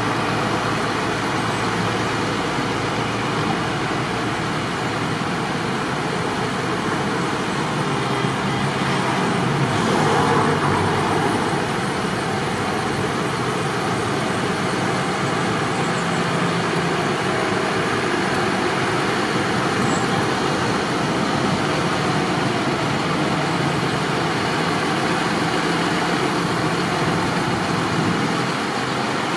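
Tractor engines running as a line of tractors drives by, a steady mixed engine and road noise that swells briefly about ten seconds in.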